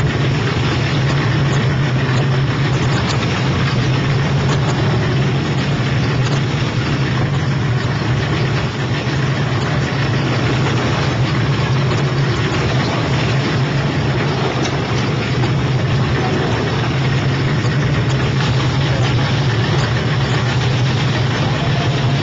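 Patrol boat's engine running steadily, a constant low drone under a dense rushing noise.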